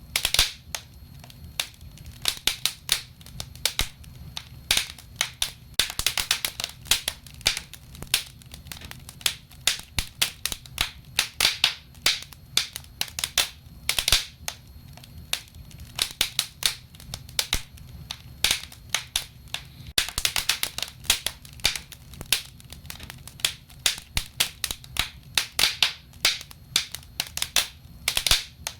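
Burning wood in a fireplace crackling and popping, with irregular sharp snaps, some in quick clusters, over a low steady rumble.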